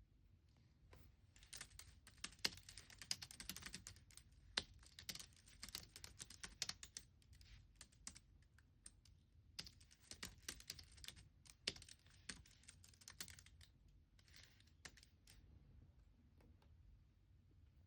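Typing on a computer keyboard: soft, quick runs of keystrokes with brief pauses, stopping shortly before the end.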